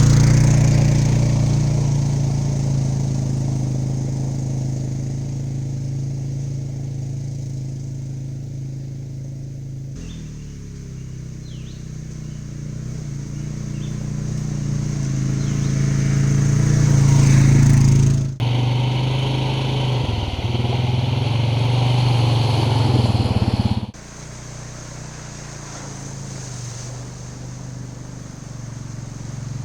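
ATV engine running steadily while being ridden. The sound jumps abruptly three times, at about 10, 18 and 24 seconds, and grows louder toward the 18-second jump.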